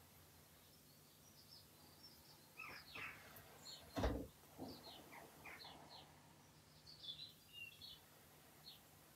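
Faint bird chirps, a series of short, quick falling calls, with one dull thump about four seconds in.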